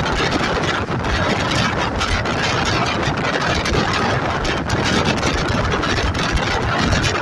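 Express passenger train running: a steady, loud rumble and rush of wheels on rails and moving air, with faint clicks now and then.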